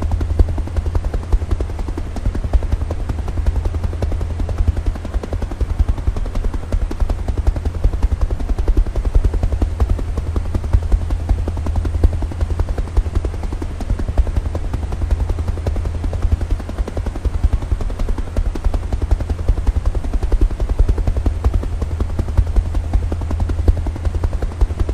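Helicopter rotor running steadily close by: a rapid, even chop over a deep, constant rumble.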